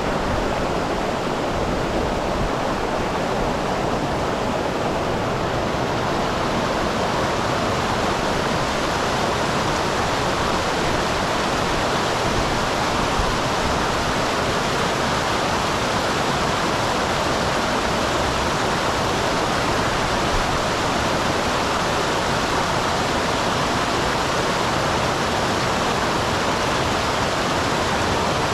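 Water of a mountain stream pouring over a small waterfall: a steady, even rushing with no breaks.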